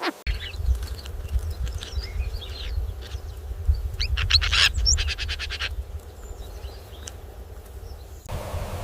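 Birds chirping in short calls and quick trills, one rapid run of notes about five seconds in, over a steady low rumble.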